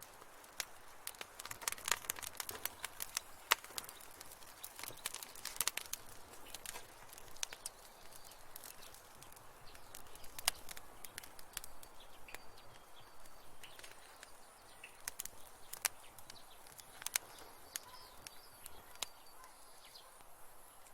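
Wood fire crackling in a fireplace, with irregular sharp pops and snaps over a soft steady hiss.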